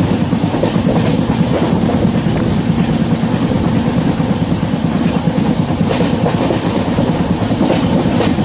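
Passenger train running at speed, heard from inside a coach: a steady, loud rumble of wheels on the rails.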